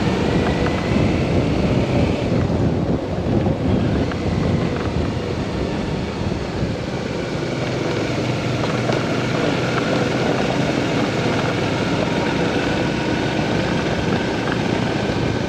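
Motorcycle running on the road, with wind rushing over the microphone.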